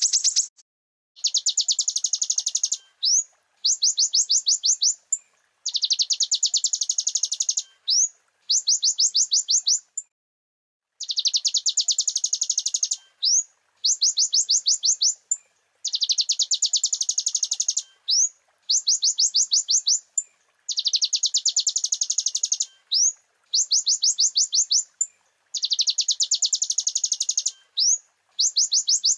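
Kolibri ninja (konin) sunbird singing: a high, rapid trill of about one and a half seconds ending in a short upward-sweeping note, repeated over and over after brief gaps, with one longer pause about ten seconds in.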